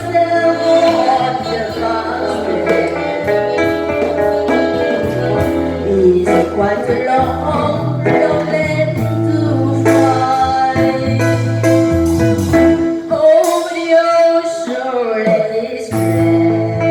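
Live music: saxophone and guitar playing a slow ballad, the melody in long held notes that waver slightly over the guitar accompaniment.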